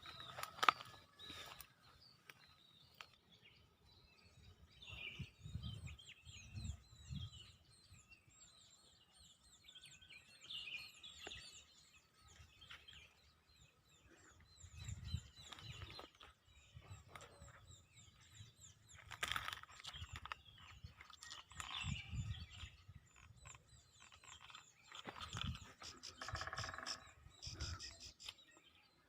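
A tame pet bird chirping, with short high chirps repeated on and off throughout, over intermittent low rumbling thumps.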